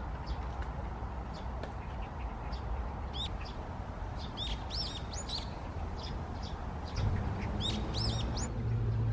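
Small birds chirping: short arched notes in quick clusters from about three seconds in, over a steady low rumble.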